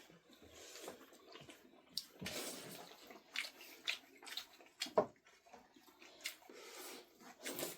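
Water splashing and sloshing in short, irregular bursts, with a few sharp knocks, the loudest about five seconds in.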